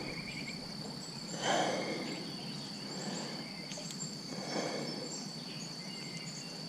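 Insects trilling in one steady high-pitched tone, with two soft swishes about a second and a half in and again near the middle.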